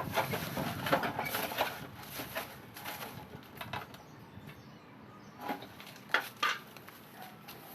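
Rustling and scraping of dry fallen leaves being gathered up in yard cleanup: dense for the first couple of seconds, then quieter, with a few separate scrapes near the end.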